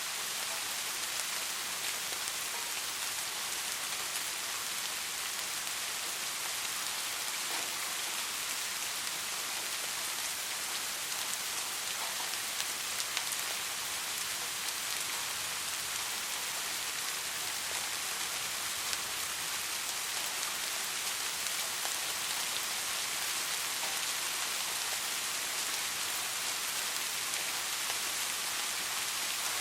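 Steady soft rain falling, an even hiss with faint patter of individual drops.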